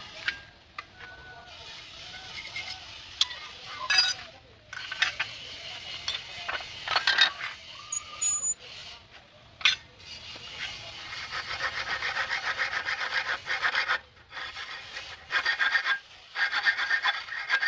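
Hand-held arc (bow) saw cutting with quick, even back-and-forth rasping strokes from about ten seconds in, after scattered knocks and scrapes.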